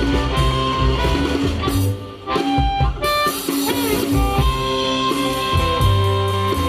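Blues band playing a slow tune with no singing: harmonica holding long notes, with a few bent ones, over guitar, bass and drums.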